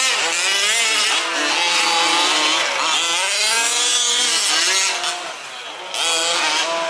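Several 1/5-scale radio-controlled 4WD off-road race trucks running together, their small two-stroke petrol engines revving up and down as they race; the sound drops away briefly about five seconds in.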